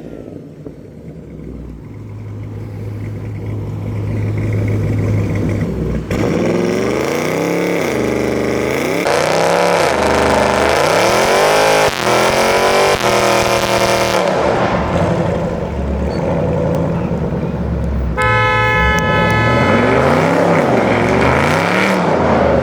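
Modified car engine revving repeatedly, its pitch rising and falling in a series of blips after a steadier low running start. A car horn honks once for over a second near the end.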